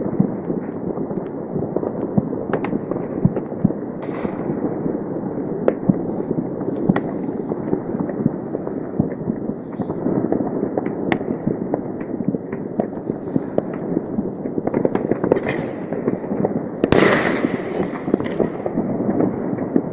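New Year fireworks going off all over the city: a continuous rattle of many distant bangs and crackles, with a louder burst about seventeen seconds in.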